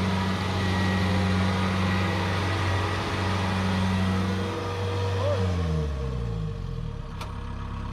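Combine rice harvester's engine running steadily, then its speed dropping about six seconds in and settling to a lower, steady hum.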